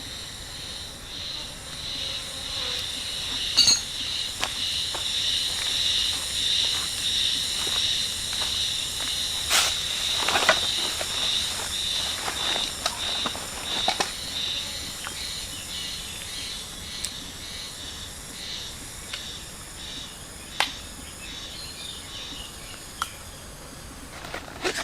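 Insects chirring in a steady, high, slightly pulsing trill, with scattered sharp clicks and knocks throughout.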